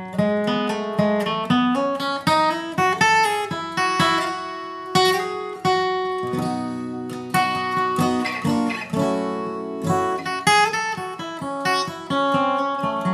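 Acoustic guitar played bluegrass-style: a lead line of quick single picked notes, with a few strummed chords about five seconds in and again near ten seconds.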